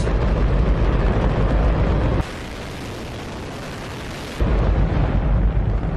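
Hydrogen-fuelled rocket engine firing: a continuous, very loud roar, heavy in the deep end. About two seconds in, it thins to a quieter hiss without the deep rumble for a couple of seconds, then the full roar returns.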